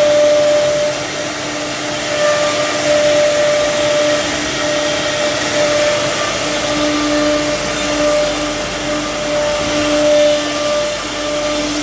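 CNC router carving wood: a steady spindle whine over the rushing noise of the cutter, with the whine wavering slightly in strength as it works.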